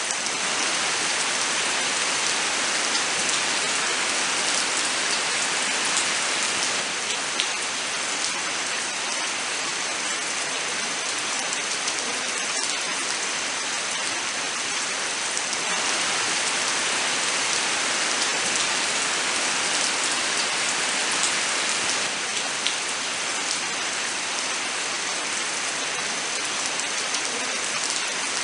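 Steady rain falling in a forest, with scattered individual drops ticking through the even hiss.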